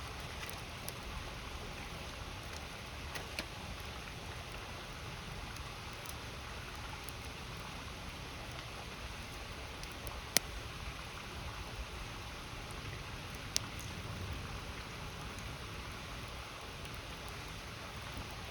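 Wood campfire crackling over the steady rush of a river, with a few sharp pops; the two loudest come about ten and thirteen seconds in.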